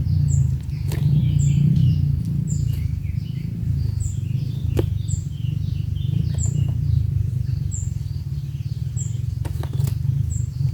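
Birds calling: a short, high note repeats about once a second over softer, busier chattering. A loud, steady low rumble runs underneath.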